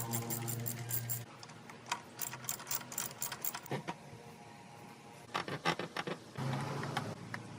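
A small electric machine running with a steady hum and a fast, even clicking, stopping about a second in. Scattered light clicks and knocks of handling follow, and a brief hum starts again near the end.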